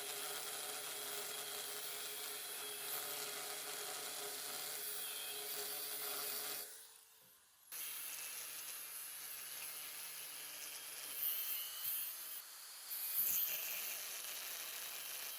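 A small power tool running steadily with an abrasive, rubbing sound. It breaks off for about a second around seven seconds in, then carries on, with a few louder scrapes near the end.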